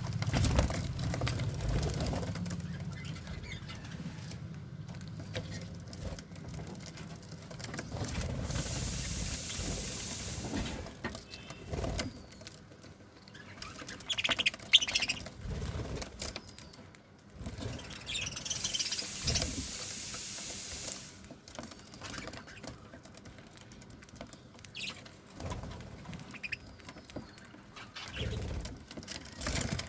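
Pet budgerigars chirping now and then, with two short bursts of wing-flapping, about a third and two thirds of the way through.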